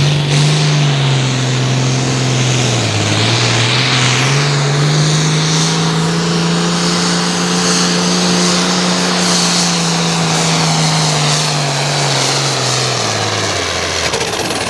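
Altered farm tractor's turbocharged diesel engine at full throttle, pulling the weight-transfer sled. Its pitch dips about three seconds in, climbs and holds high, then falls away near the end as the tractor slows to a stop.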